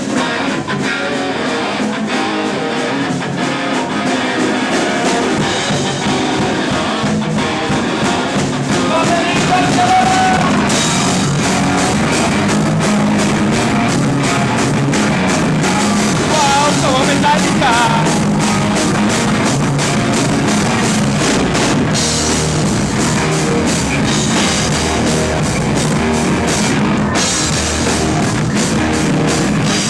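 Rock band playing live, with drum kit and guitar. The band comes in fuller about ten seconds in.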